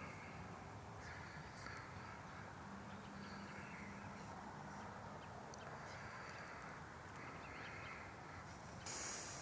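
Crows cawing repeatedly, fairly faint, over a steady background hum. A brief loud hiss comes near the end.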